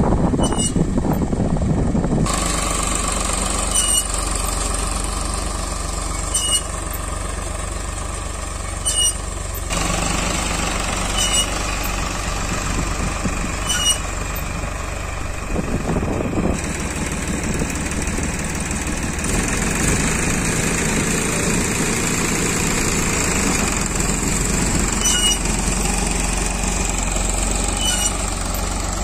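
Diesel tractor engine running steadily under load while pulling a groundnut seed drill, with a faint chirp repeating about every two and a half seconds.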